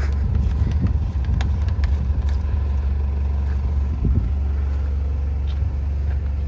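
A vehicle engine idling with a steady low rumble, with a few light knocks and clicks in the first couple of seconds.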